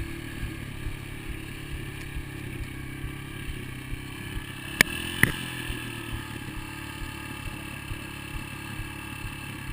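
Dirt bike engine running at a steady pitch, with two sharp clicks a little under five seconds in.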